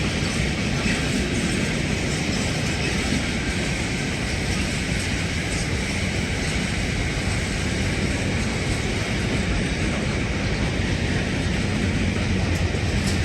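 A train running through a railway station, a steady noise strongest in the low end that holds level throughout.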